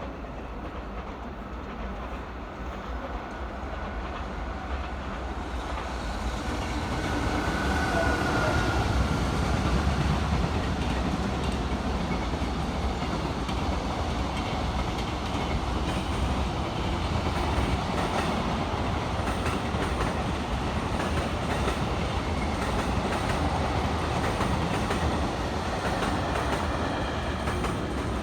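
A train running through the station, its rumble growing louder over the first several seconds and then holding steady.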